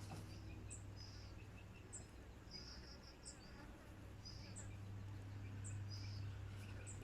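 Faint, short high chirps from a caged oriental magpie-robin (kacer), about one a second, with a quick run of four notes around the middle, over a steady low hum.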